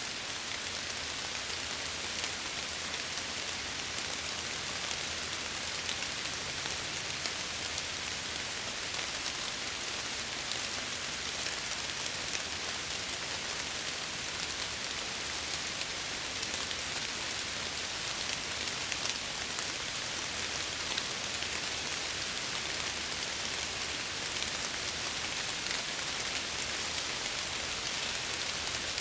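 Steady rain pattering on window glass, with no thunder or other sudden sounds.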